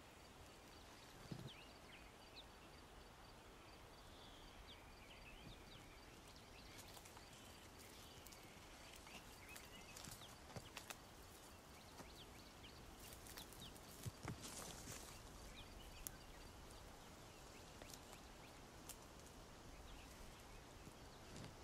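Near silence: faint rainforest ambience with scattered small clicks and rustles and a few faint high chirps, over a faint high even pulsing that stops after about six seconds.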